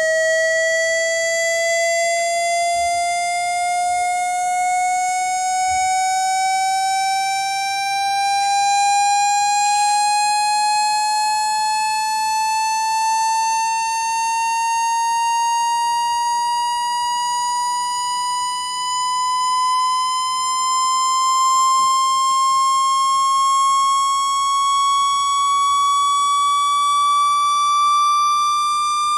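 Electronic speaker-clearing test tone, a buzzy tone with overtones sliding slowly and evenly upward in pitch, played to vibrate water out of a phone's speaker.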